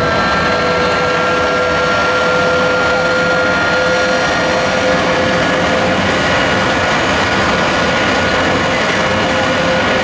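Jet engine running steadily and loud, a continuous rushing roar with a high, steady whine over it.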